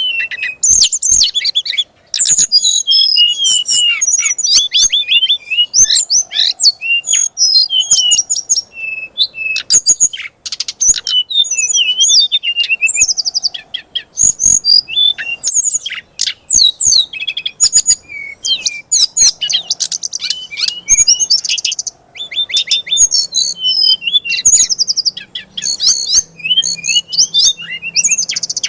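Songbird singing a fast, unbroken stream of varied chirps, trills and sharp clicks. This is the aggressive 'fighter' song used to rouse oriental magpie-robins into singing.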